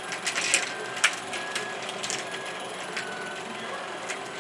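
Motorized ROKR wooden marble run running: a steady mechanical clatter from the lift and tracks, with irregular clicks as marbles roll and knock along the track.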